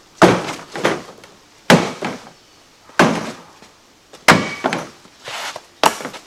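A series of about nine heavy, uneven blows on wood, each a sharp crack with a short ringing tail.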